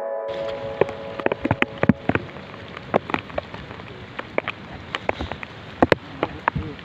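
Rain falling, with big drops striking a surface close to the microphone as irregular sharp taps over a steady hiss.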